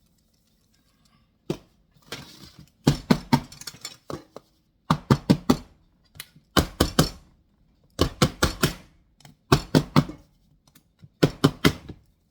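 Metal cake pans of batter rattling and knocking against a countertop in short bursts of three to five quick strikes, about every one and a half seconds, as the pans are tapped to settle the batter.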